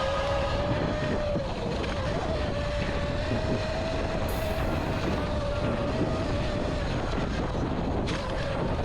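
Electric dirt bike's motor whining steadily under way, a single held pitch that creeps up slightly near the end, over a rough rushing noise.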